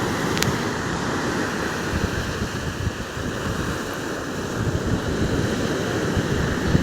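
Rough, storm-driven Black Sea surf: a continuous rush of waves with wind buffeting the microphone in gusty low rumbles.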